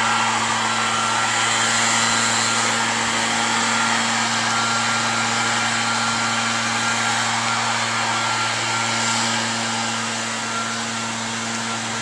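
A steady whooshing noise with a low hum, like a blower or fan running, easing off slightly about ten seconds in.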